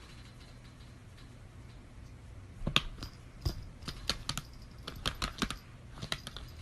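A quiet stretch, then from about two and a half seconds in an irregular run of sharp clicks and taps, several a second.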